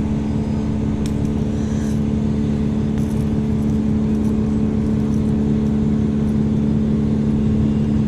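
A steady, unchanging motor-like hum with low wind rumble on the microphone.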